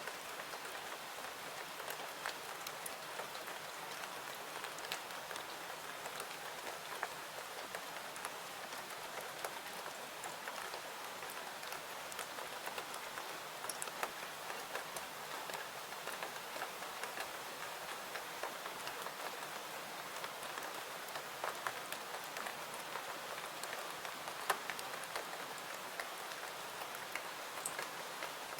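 Steady rain falling: an even hiss dotted with scattered sharp ticks.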